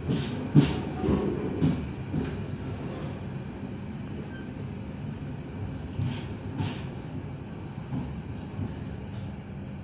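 Passenger train carriage rolling slowly into a station, heard from inside: a steady low rumble from the wheels and running gear, with sharp wheel clacks over rail joints and points. The clacks come in a quick cluster in the first couple of seconds and as a pair about six seconds in.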